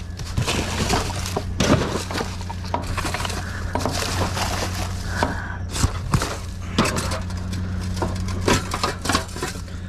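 Rummaging through junk in a dumpster: irregular knocks, clatters and clinks of hard debris being shifted and dropped, over a steady low hum.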